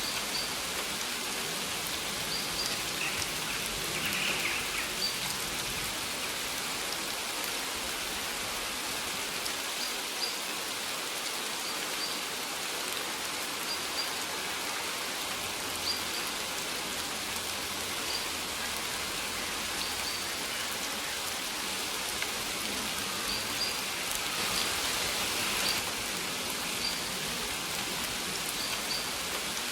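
Steady rain falling and pattering, with short high chirps that come back every second or two.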